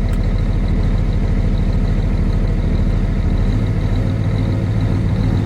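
Peterbilt semi truck's diesel engine idling steadily, just after starting on its first try in three months of sitting. It sounds healthy to the owner: "she sounds good".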